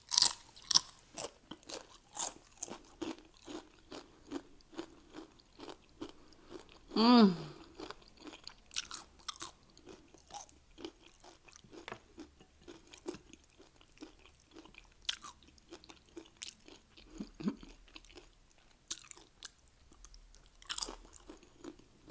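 Close-miked crunching and chewing of Doritos nachos, short crisp crunches coming several times a second. About seven seconds in, a loud vocal groan falls steeply in pitch, and a shorter low groan follows later.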